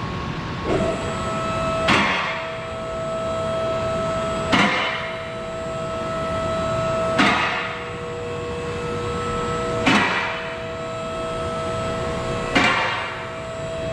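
Lift motor running with a steady whine while it raises the truck body. A sharp clunk comes regularly about every two and a half seconds, five times, like the lift's safety locks catching as it rises.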